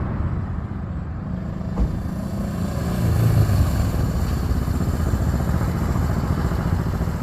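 Honda CB350's air-cooled parallel-twin engine running steadily, briefly louder about three seconds in, with a single short knock near two seconds.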